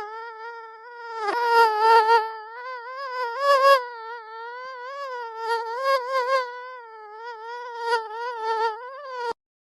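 Mosquito in flight: a high, wavering whine from its wingbeats that swells louder and buzzier several times as it comes close, then cuts off suddenly near the end.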